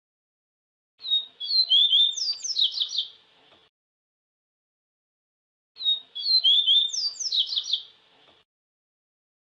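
Papa-capim seedeater singing: two fast twittering phrases of quick high slurred notes, each about two and a half seconds long. The first comes about a second in and the second near six seconds, with dead silence between them.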